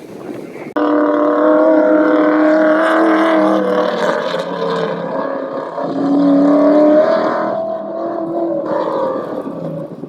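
A loud vehicle engine running at fairly steady high revs. It starts abruptly about a second in, eases briefly near the middle, then picks up again.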